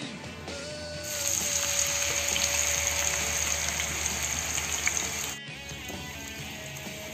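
Chopped onions frying in hot oil in a nonstick frying pan. A loud sizzle starts about a second in and cuts off abruptly at about five and a half seconds. Background music plays throughout.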